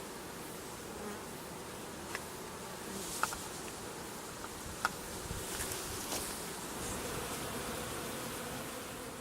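Honeybees buzzing in a steady drone, with a few faint sharp clicks over it.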